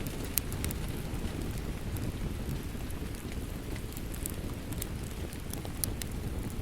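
Steady rain with a low, even rush, and a wood fire crackling with scattered sharp pops throughout.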